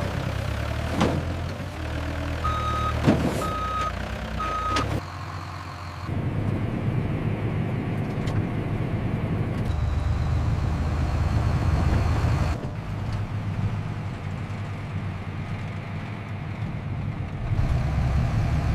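Heavy factory machinery running with a low, steady rumble that changes abruptly several times. Near the start come three short beeps on one pitch, like a reversing alarm, and a few sharp clanks.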